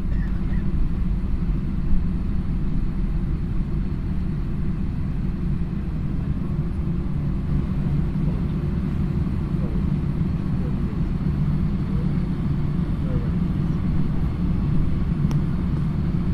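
Steady low rumble inside an Airbus passenger cabin as the airliner rolls on the ground just after landing, with faint voices in the background.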